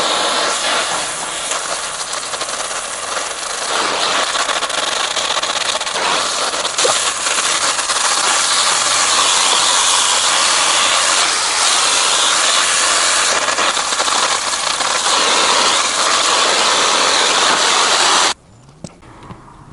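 Oxy-fuel torch flame hissing steadily at full burn. It is shut off abruptly near the end.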